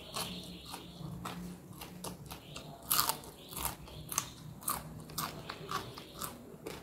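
Crunchy food being bitten and chewed close to the microphone: a string of irregular crunches, the loudest about three seconds in.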